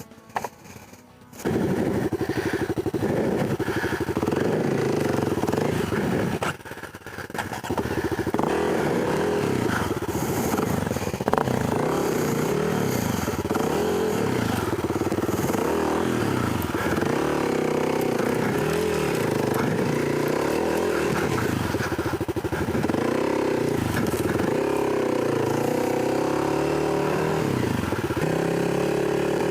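Dirt bike riding on a trail: a 2021 Kawasaki KLX300's single-cylinder four-stroke engine, whose revs rise and fall over and over under the throttle. It comes in loudly about a second and a half in and dips briefly around seven seconds in.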